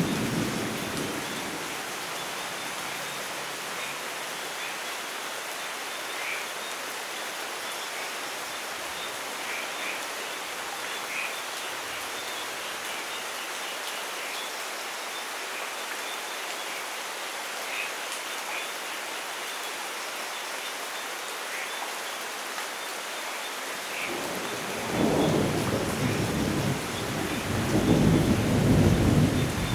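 Steady rainfall in a thunderstorm. A roll of thunder is dying away at the start, and another rumble builds near the end and is loudest just before the close.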